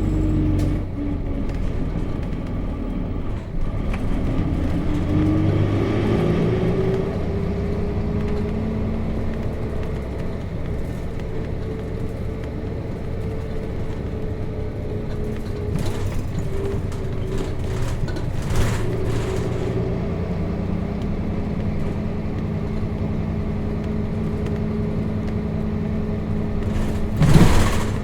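Nissan Diesel KC-RM211GSN bus's FE6 six-cylinder diesel heard from inside the bus while under way. The engine note drops in the first second, dips about three and a half seconds in, then rises as the bus accelerates and holds steady at cruise. A brief loud burst of noise comes near the end.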